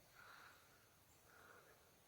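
Near silence, with two faint soft hisses about a second apart.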